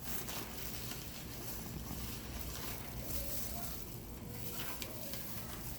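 Wind buffeting the microphone over a steady hiss.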